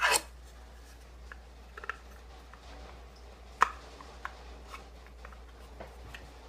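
Light handling of a model aircraft display stand as it is fitted together: a short rustle at the start, then a few scattered small clicks and taps, the sharpest about three and a half seconds in.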